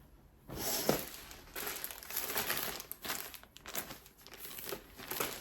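Packaging being crinkled and handled while an item of clothing is unwrapped, starting about half a second in and going on in irregular rustling crackles.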